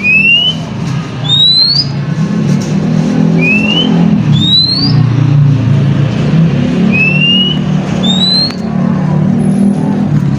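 An oriental magpie-robin (kacer) calls with short rising whistles, about six in turn, alternating between a lower and a higher pitch. Under them runs a loud, steady low rumble that sounds like vehicle or engine noise.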